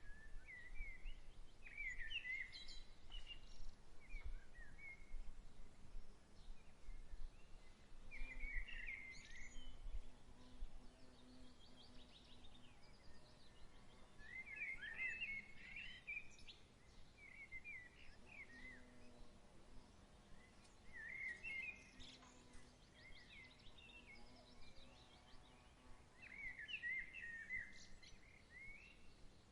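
Songbirds singing short chirping phrases every few seconds over a faint, steady outdoor background, with a soft low rumble of breeze during the first third.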